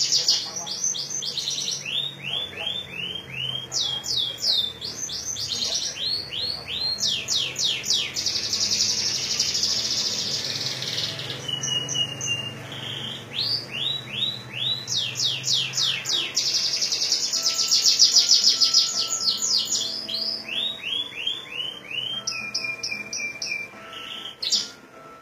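Domestic canary singing a ciblek-style (bar-winged prinia) song: fast, high buzzing trills alternating with runs of three to six quick downward-sweeping notes, phrase after phrase.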